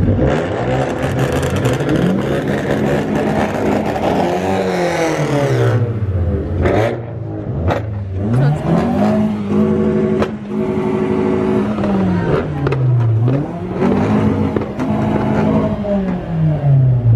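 A car engine being revved over and over, its pitch climbing and falling several times and held high for a few seconds around the middle, with two sharp cracks about seven seconds in.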